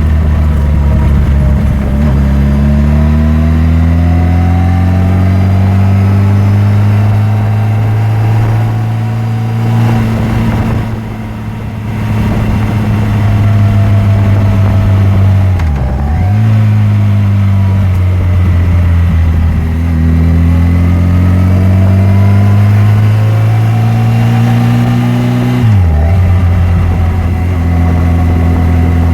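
Yamaha FJR1300's inline-four engine under way, its pitch climbing slowly, then twice dropping sharply and picking up again about halfway through and near the end, as at gear changes.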